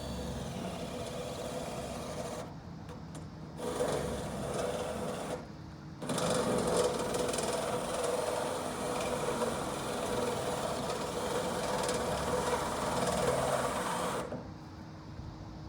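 Small handheld power tool motor running in two runs, a short one of about two seconds and then a longer one of about eight seconds, each stopping abruptly.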